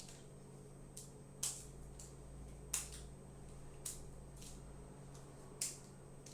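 Tortilla chips crunching as they are bitten and chewed: five sharp, crisp crunches at uneven intervals of about one to two seconds.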